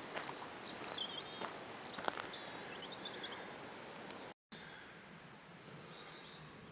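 A songbird singing a quick, warbling phrase over the outdoor ambience of a woodland path, with a few faint footsteps. The sound drops out briefly about four seconds in and comes back quieter, with only faint bird notes.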